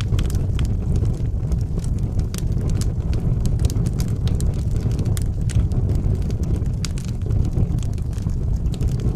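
Wood fire burning in a fireplace: frequent, irregular sharp crackles and pops over a steady low rumble.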